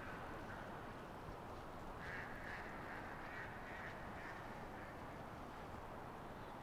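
Birds calling outdoors: a run of short, repeated calls about two seconds in, over a steady background hiss.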